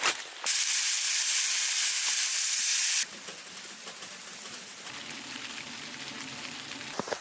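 A loud, steady sizzling hiss for about two and a half seconds, cutting in and stopping abruptly. After it comes a much fainter steady noise with a low hum and a couple of sharp clicks near the end.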